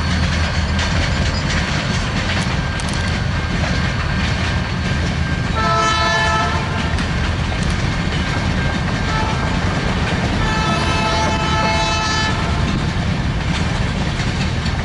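Freight cars rolling past with steady rumble and clickety-clack of wheels over rail joints, and a train horn sounding twice, about a second long near the middle and about two seconds long later on.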